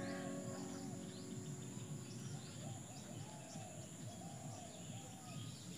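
Faint outdoor ambience: a bird gives a string of short rising-and-falling calls, with smaller chirps from other birds, over a steady high insect drone.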